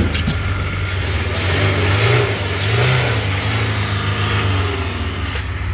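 Suzuki Jimny engine revving and pulling under load over rough off-road ground, its pitch rising and falling, with knocks from the vehicle. The driver takes the banging for the mounting points that failed the MOT.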